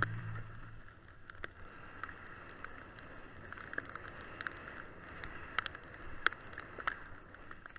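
Background music fading out within the first second, then a faint hiss with scattered light clicks.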